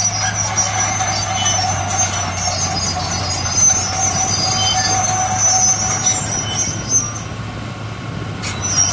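Heavy earthmoving machine running with a steady engine hum and high metallic squealing, typical of crawler bulldozer tracks. The squeal drops out and the sound eases off near the end, then picks up again.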